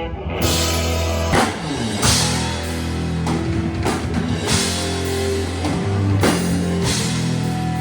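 Rock band playing, with drum kit and guitar over held bass notes and repeated cymbal crashes.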